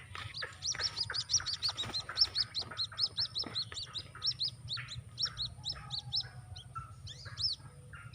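White-breasted waterhen chick peeping: a rapid series of short, high peeps, about four a second, thinning out in the second half, used as the lure call. Lower clucking calls come in underneath.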